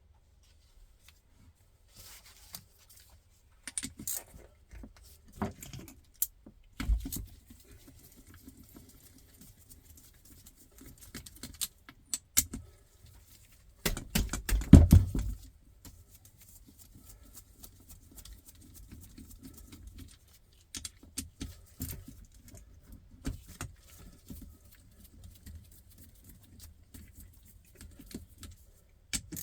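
Metal tools and small engine parts clinking and clattering in irregular knocks, with a louder burst of rattling about halfway through.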